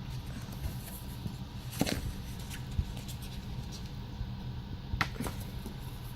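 A calendar's pages being handled and turned, with a few short light clicks and rustles, over a steady low hum.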